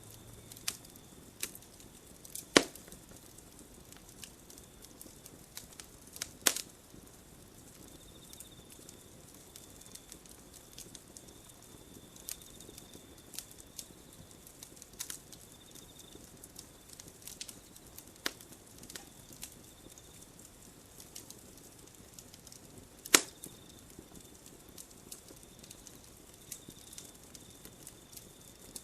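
Campfire wood burning with scattered small crackles and pops. Three much louder sharp pops stand out, about two and a half seconds in, about six and a half seconds in, and near the end.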